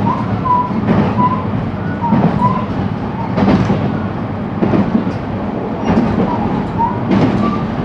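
Inside a JR West 223-series electric train's motor car running along the line: a steady low rumble with rail-joint clicks about once a second, and short high tones coming and going.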